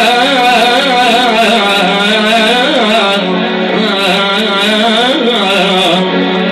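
Live tallava music: a winding, heavily ornamented melody over a steady held drone note.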